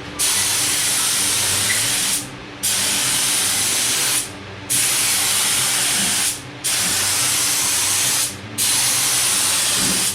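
Air spray gun with a 1.4 tip spraying epoxy primer onto a car door: a loud hiss of air and primer in five passes of about two seconds each, the trigger let off briefly between passes.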